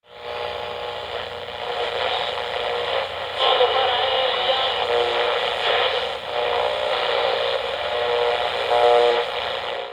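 Radio sound effect of a running train: a steady rushing rumble with held, whistle-like tones rising out of it about three and a half seconds in and again near the end. It is heard through the narrow, hissy sound of an old radio transcription.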